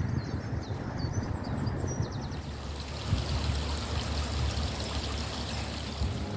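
Running water, a steady rushing trickle like a small stream, with a few high bird chirps in the first two seconds.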